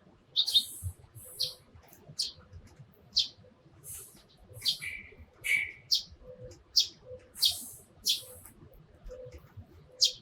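Eurasian tree sparrows chirping: a steady run of short, sharp, high chirps, about one or two a second.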